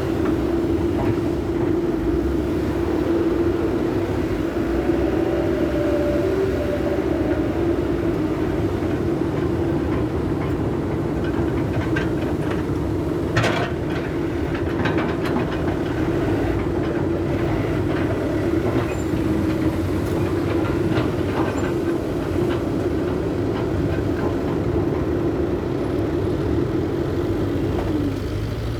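Mitsubishi Canter dump truck's diesel engine running steadily under load, with knocks and rattles from the truck jolting over a rough track and a sharp clatter about halfway.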